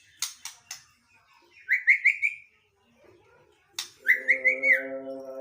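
White-rumped shama singing: a few sharp clicking notes, then two runs of four quick rising whistled notes. A steady tone comes in near the end.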